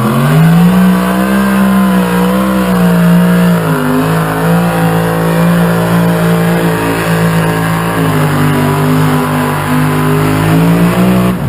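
Competition pulling tractor's engine at full throttle under load during a pull. It revs up sharply in the first second, holds at high revs with a short sag about four seconds in, and cuts off right at the end.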